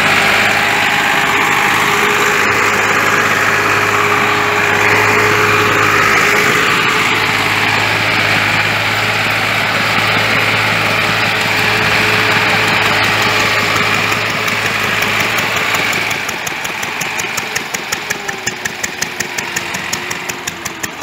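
Massey Ferguson 260 tractor's three-cylinder diesel engine running steadily. About three-quarters of the way through it eases off to a slower, evenly pulsing beat.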